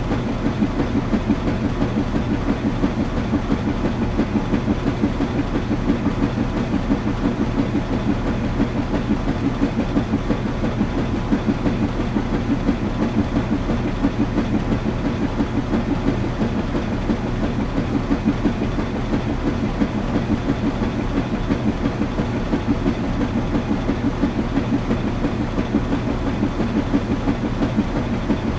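Washing machine running: a steady low mechanical hum with a fast, even pulse that keeps going without change.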